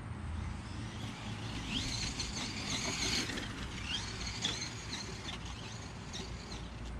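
Dynamite Tazer 3000kV brushless motor in an RC dump truck, whining in bursts as the truck accelerates and slows. The pitch rises and falls, with the longest burst about two seconds in, another around four seconds, and a short one near six seconds. A steady low rumble runs underneath.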